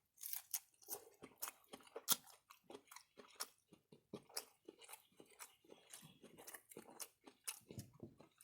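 Close-up mouth sounds of a person chewing crunchy food, with rapid wet crunches and clicks several times a second.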